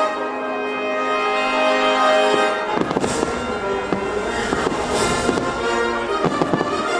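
Fireworks show soundtrack of orchestral music with brass, with fireworks bursting over it; a cluster of sharp bangs starts about three seconds in and more follow.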